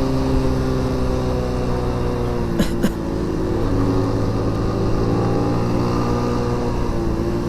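Motorcycle engine running at a steady pace while riding. There are two sharp clicks about two and a half seconds in, and the engine note dips slightly just after them.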